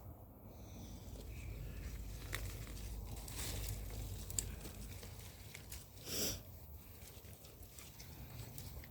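Rustling and scattered light clicks of hands working through garden soil and potato plants, with a brief louder scrape about six seconds in, over a low steady rumble.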